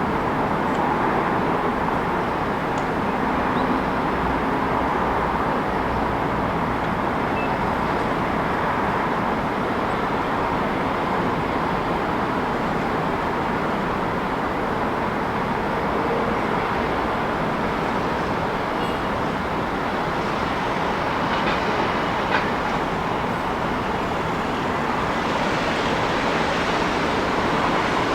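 Steady city ambience: a continuous rumble and rush of passing traffic, with a faint click about two-thirds of the way through.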